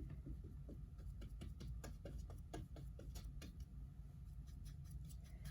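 Paintbrush dabbing and scrubbing acrylic paint onto a canvas: an uneven run of soft taps and scratches over a low steady hum.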